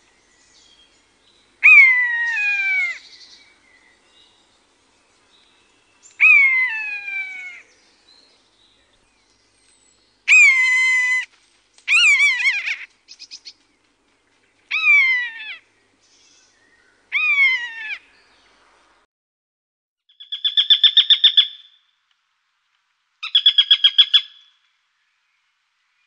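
Common buzzard giving six drawn-out mewing calls, each falling in pitch, followed after about twenty seconds by two quick chattering series of short repeated notes from a Eurasian sparrowhawk.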